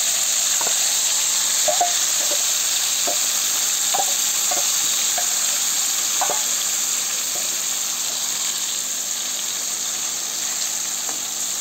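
Bhetki fish pieces and spice paste sizzling in hot oil in a metal kadai (wok) as they are stirred with a metal spatula. Light clicks of metal on the pan come every second or so in the first half, and the sizzle eases slightly toward the end.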